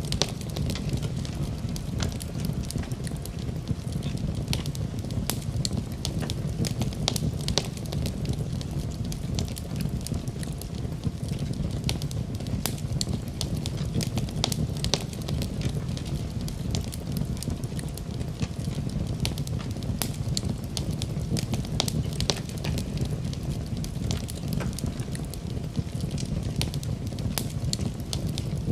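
Wood fire burning in a fireplace, crackling with many sharp, irregular pops and snaps over a steady low rumble of the flames.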